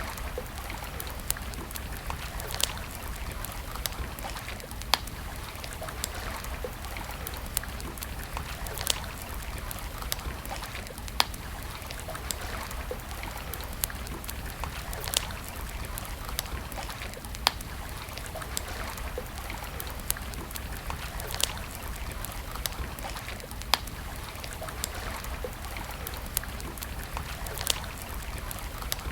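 Campfire crackling: wood burning with irregular sharp pops and snaps over a steady hiss and low rumble.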